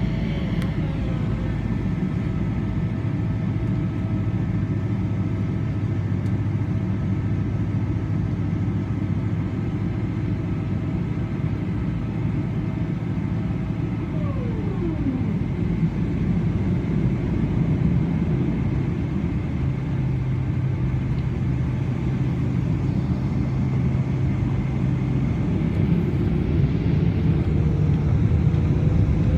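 Jet airliner's engines heard from inside the cabin on the ground: a steady low rumble with a thin engine whine. The whine holds steady, drops in pitch about halfway through, and begins rising again near the end as the engines spool up and the sound grows louder.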